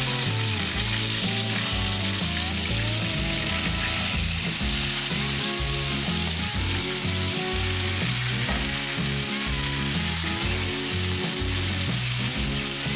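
Small stuffed brinjals (eggplants) sizzling steadily as they fry in hot oil in a steel pan.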